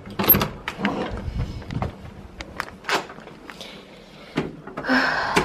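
A door being opened and shut, with a series of sharp clicks and knocks and a few low thumps, and a short rustle near the end.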